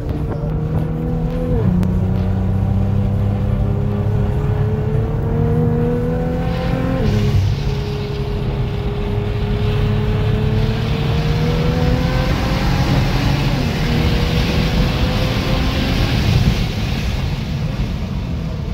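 Car engine heard from inside the cabin, accelerating hard through the gears: its pitch climbs, drops at two upshifts about a second and a half and seven seconds in, then climbs slowly and levels off. Wind and tyre noise grow louder as the speed builds.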